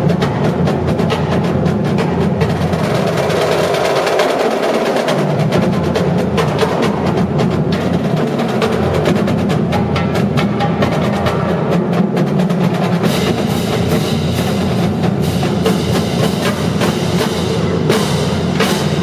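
Marching drumline playing a dense, rapid percussion passage of snare drum rolls and bass drum hits. About two-thirds of the way in a brighter, hissing layer joins on top.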